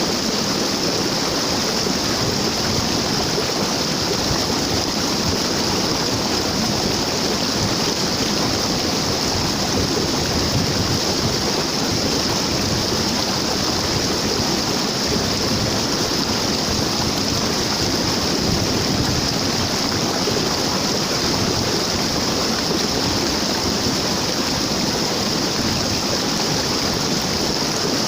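Waterfall: falling water rushing steadily, an even, unbroken roar.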